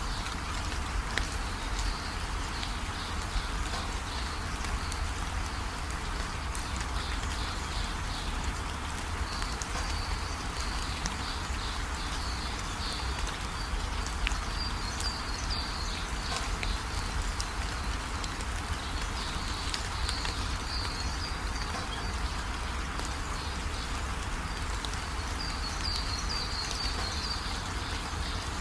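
Steady rain falling, with a low rumble underneath. High-pitched chirping comes and goes in short spells throughout.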